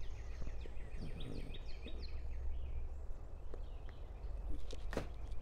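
A bird singing a quick run of short, high, descending chirps for the first few seconds over a steady low rumble of outdoor background noise. One sharp click comes near the end.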